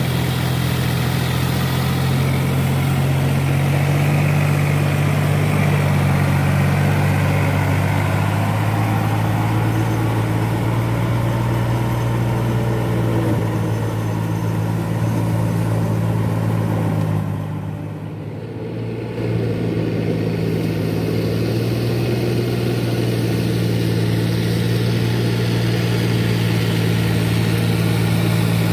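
Four-wheel paddy-field tractor's engine running steadily with a low, even hum; the sound drops briefly about two-thirds of the way through, then picks up again.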